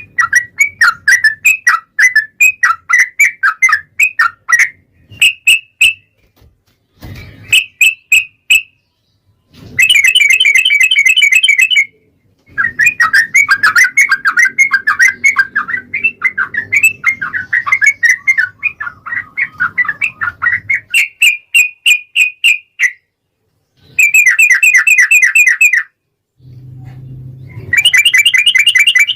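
Yellow-vented bulbul (trucukan) singing a long, continuous 'ropel' song: strings of quick, bubbly chattering notes with short pauses between phrases. About ten seconds in and again twice near the end it breaks into a faster, buzzier trill.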